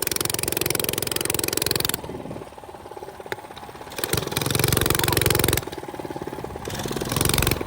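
Small minibike engine under throttle, opened and backed off repeatedly: loud for about two seconds, easing for about two, then rising again twice.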